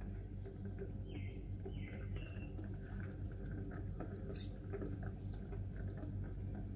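Sparrows chirping in a few short calls while pecking at millet, with many light tapping clicks. A steady low hum runs underneath.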